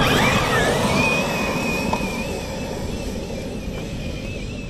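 Arrma Notorious RC stunt truck's brushless electric motor whining under throttle, over a rush of tyre and drivetrain noise. The whine drops in pitch at the start, then holds steady with a slight waver as the sound slowly fades.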